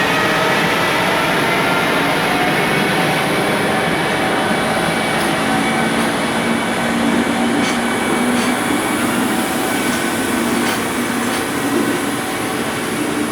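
Container freight train rolling past at low speed, a steady rumble of wheels on rail with faint whining tones in the first few seconds and a few sharp clicks over rail joints later on.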